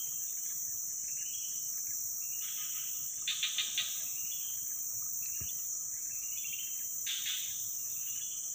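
Swamp-forest insects: a continuous high-pitched drone with repeated short trains of chirps over it every second or two, four sharper pulses a little over three seconds in.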